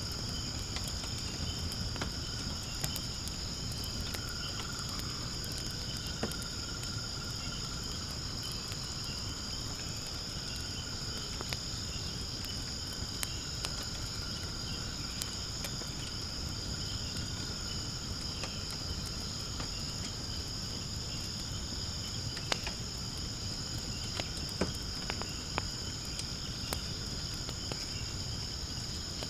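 Firewood burning in a fire pit, with frequent small crackles and a few sharper pops over a low rumble of the fire. Behind it runs a steady high chirring of insects.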